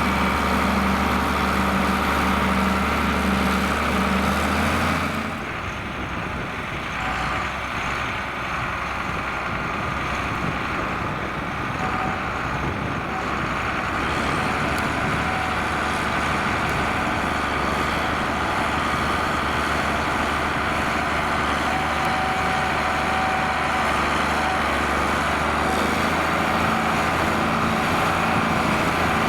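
John Deere 4850 tractor's six-cylinder diesel engine running steadily while ploughing. About five seconds in the sound drops a little and changes character, then runs evenly again.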